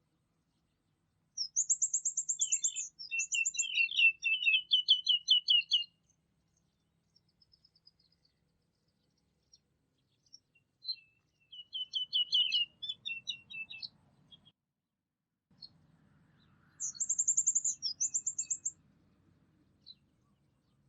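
A songbird singing three phrases, each a fast high trill followed by a rapid run of lower repeated notes, with a few single chirps in between.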